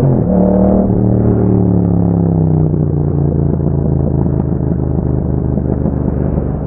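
Yamaha MT-07's 689 cc parallel-twin engine through an Akrapovic exhaust. Right at the start the pitch dips briefly, as at a gear change. It then falls slowly over the next two seconds or so and settles into a steady, lumpy low-rev beat.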